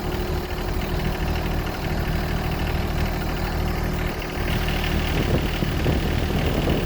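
An engine idling steadily with an even low drone.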